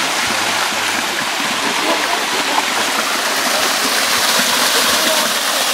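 Small creek flowing, a steady rush of running water.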